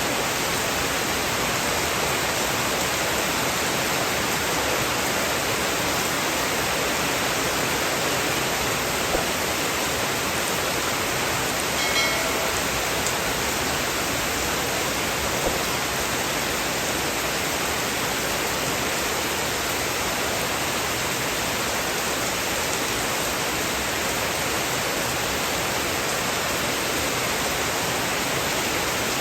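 Steady heavy rain, an even hiss with no changes. A few faint ticks sound through it, and there is a brief short chirp about twelve seconds in.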